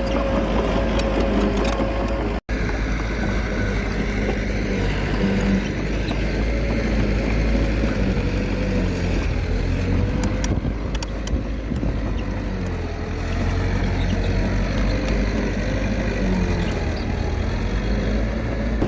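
Komatsu D21A bulldozer's diesel engine running under load as it pushes rock and soil, a steady deep rumble whose pitch sags and then recovers about twelve seconds in. The sound breaks off for an instant about two and a half seconds in.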